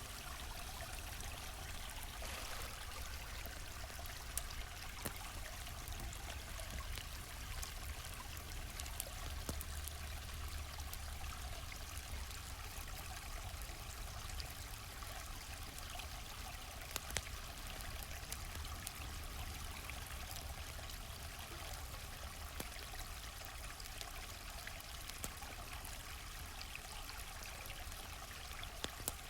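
Steady rush and trickle of a flowing stream, with scattered sharp pops and crackles from a campfire every few seconds.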